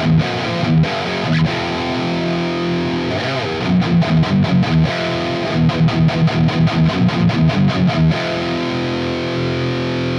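Distorted electric guitar riff played through an EVH 5150 amp with an EarthQuaker Devices Plumes overdrive in front as a boost, its level turned back. Held chords give way to a run of fast, even chugs, about four a second, in the middle.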